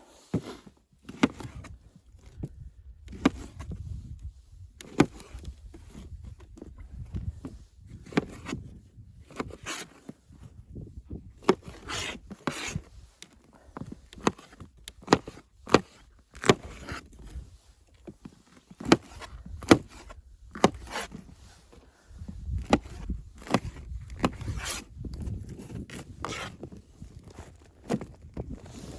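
Irregular sharp wooden knocks with rubbing and scraping between them, as of wood being handled, over a low rumble that fades in the middle and returns near the end.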